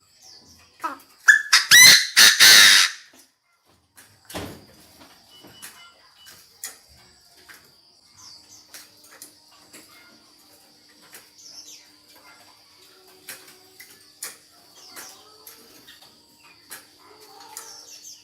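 Chinese francolin giving one loud, harsh call burst about a second in, lasting about a second and a half, with a shorter call near the 4-second mark. After that come scattered light clicks and faint chirps over a faint steady high tone.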